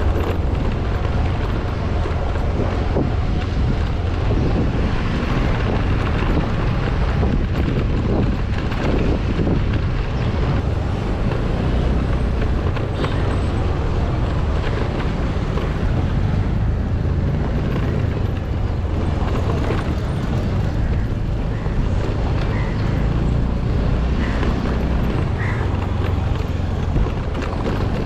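A vehicle driving along at a steady pace: a constant low rumble of engine and road noise, with wind buffeting the microphone.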